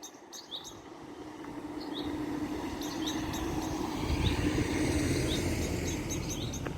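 A road vehicle approaches and passes, its engine and tyre noise swelling to a peak about four to five seconds in and then easing off. Small birds chirp throughout.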